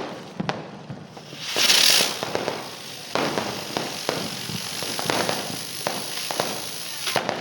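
Diwali firecrackers going off. A loud hissing burst comes about a second and a half in, followed by a run of scattered crackling pops and bangs.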